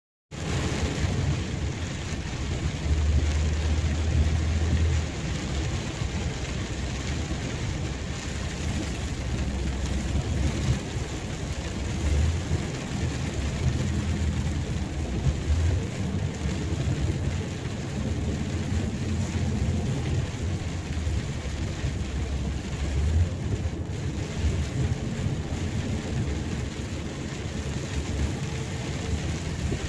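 Rain falling steadily in a dense, even hiss, with repeated low rumbles underneath that come and go every few seconds.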